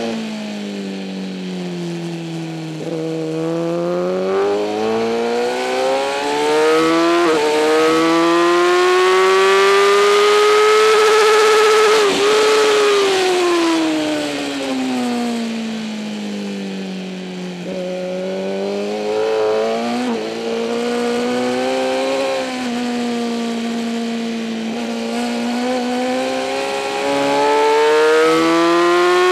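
2008 Kawasaki ZX-10R's inline-four engine at race speed. The pitch climbs through quick upshifts to a peak about ten seconds in, falls away steadily as the bike slows, then climbs again through more upshifts.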